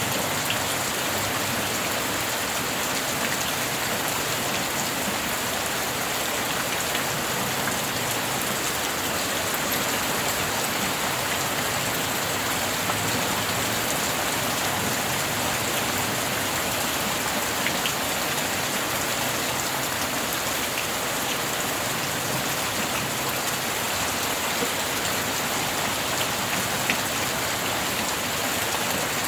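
Steady rain falling: an even, unbroken hiss with a few drops ticking out of it here and there.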